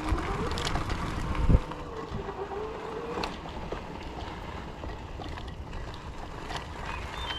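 Fat-tire e-bike riding along, with wind and tyre rumble. The electric motor whines, rising in pitch over the first few seconds as the bike speeds up. A sharp thump comes about one and a half seconds in.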